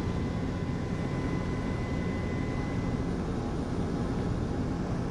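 A steady, even rumble of noise, strongest in the low range, with a faint thin tone above it that fades out about three seconds in.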